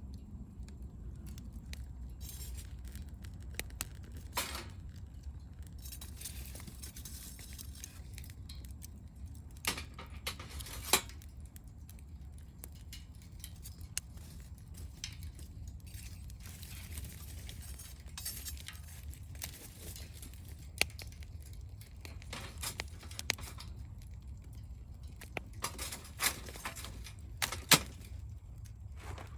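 Wood fire crackling: scattered sharp pops and clicks at irregular intervals, a few of them louder, over a steady low rumble.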